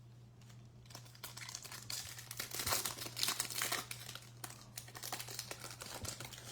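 Wrapper of a Topps Chrome baseball card pack being torn open and crinkled, a dense crackling that is loudest in the middle, over a steady low hum.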